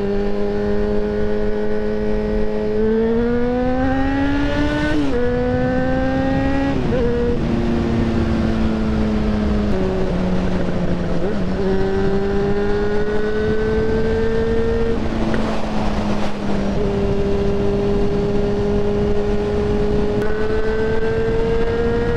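Yamaha XJ6N motorcycle's inline-four engine under way. Its note climbs as it accelerates about three seconds in, drops sharply with gear changes around five and seven seconds in, and climbs and drops again a few more times. A steady rush of wind sounds throughout.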